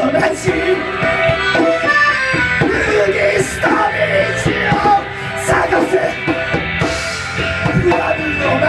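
Live instrumental band music with a reedy lead line over guitar, bass and drums.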